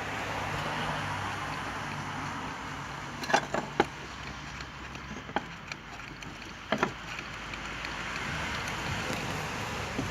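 VW Bora 1.6 engine running steadily, with a handful of sharp knocks in the middle: three in quick succession, then one, then a double knock. The knocks are taken for worn engine mounts.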